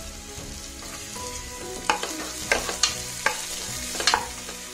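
Chopped shallots and coconut pieces sizzling in hot coconut oil in a pressure cooker, with a steady hiss. A wooden spatula stirs them, knocking and scraping against the pot about five times in the second half.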